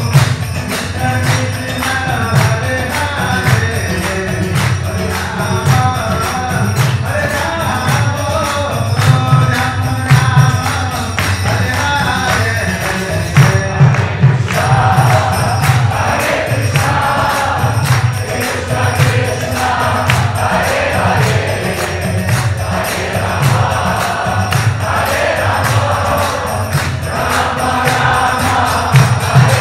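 Devotional group singing, kirtan-style, over a steady beat of hand cymbals and a low drum.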